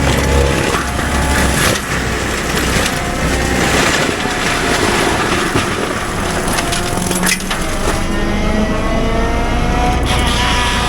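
CAT 310 excavator's diesel engine running under load while brush and wood are crushed and cracking. There is one sharp crack about seven seconds in.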